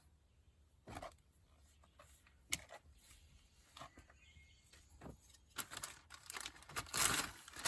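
Small handling noises from work on a car door panel: scattered taps and clicks, then a louder stretch of rustling from about five and a half seconds in, loudest near the end.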